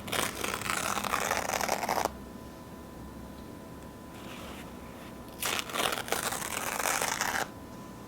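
Paper towel being torn slowly close to the microphone, a long crackly rip of about two seconds, then after a pause a second one.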